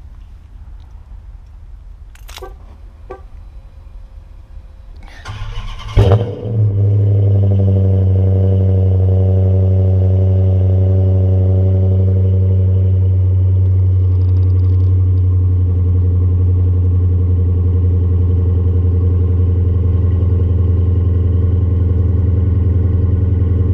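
A 2014 Dodge Challenger R/T's 5.7-litre Hemi V8, on Flowmaster Super 44 mufflers with the resonators removed, starts about five seconds in with a brief crank and a loud bark, then settles into a loud, steady idle.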